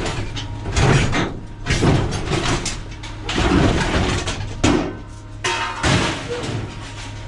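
Pieces of scrap steel being thrown onto a pile, clanking irregularly several times over a steady low hum.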